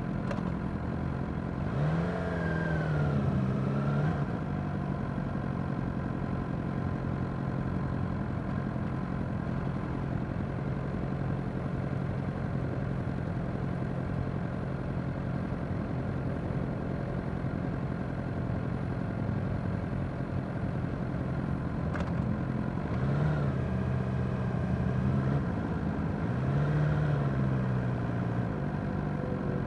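Suzuki GSX-R600 inline-four engine idling steadily in slow stop-start traffic. It revs up and back down about two seconds in and twice near the end as the bike creeps forward.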